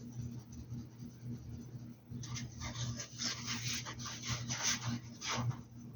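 A paintbrush scratching in quick strokes across the hat, a dense run of short rasping strokes from about two seconds in until shortly before the end, over a steady low hum.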